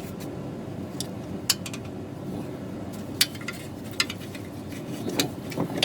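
Metal hand tools clinking: about six sharp, separate clinks, irregularly spaced, over a steady background hiss.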